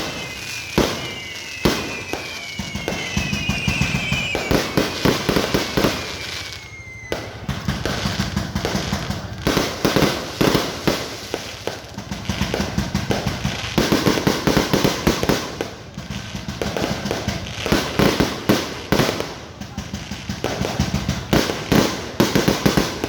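Fireworks going off in quick succession: a dense, continuous run of bangs and crackles. In the first several seconds, several whistles fall in pitch over the bangs.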